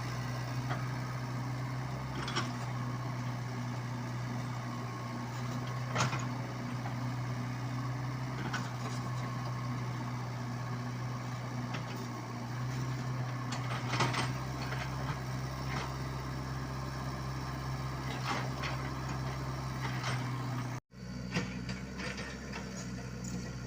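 Komatsu PC75UU mini excavator's diesel engine running steadily, with a few sharp knocks and clanks scattered through. The sound drops out for an instant near the end, then the engine carries on.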